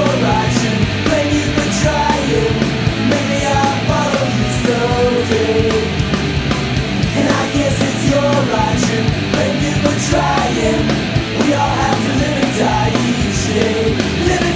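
Loud punk rock band music with drums and regular cymbal hits under a melodic line that bends up and down in pitch, with no lyrics sung.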